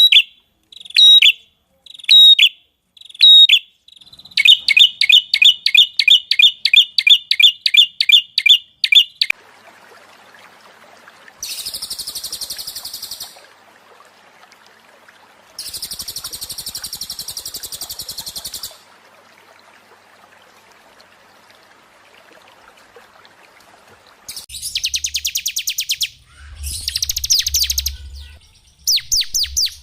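Recorded small songbirds calling in sequence: high chirps about once a second, a fast repeated trill, two long buzzy hissing calls, then several rapid trills near the end, with a faint low hum under the last part.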